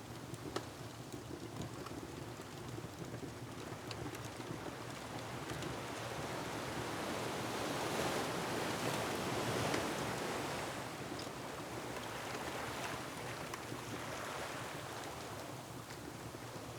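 Ocean waves surging against a rocky shore with wind, the wash swelling to a peak about halfway through and easing off again, with a few sharp pops and crackles from a wood fire.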